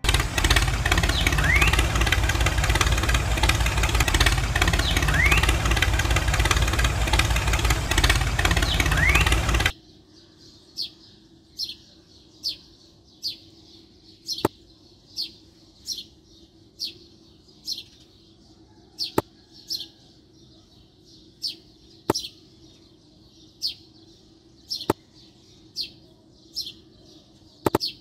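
A miniature toy tractor's small electric motor runs with a loud, steady buzz for about ten seconds, then cuts off suddenly. After that a bird chirps over and over, about once a second, with a few sharp clicks in between.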